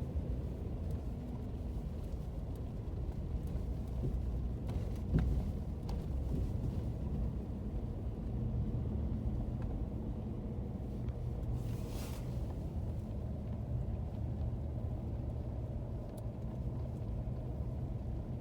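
Steady low road rumble inside a moving car's cabin, from the engine and the tyres on a snowy road, with a brief click about five seconds in and a short hiss around twelve seconds.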